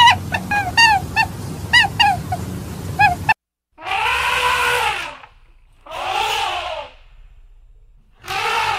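Animal calls: a quick series of short chirping calls, several a second, then after an abrupt cut three long drawn-out calls of about a second each.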